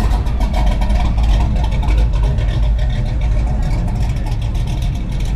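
Car engines running with a steady low rumble.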